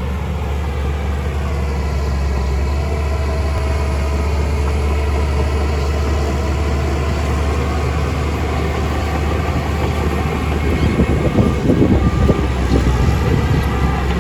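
Heavy earthmoving machine's engine running steadily under work, growing louder and rougher for a couple of seconds near the end.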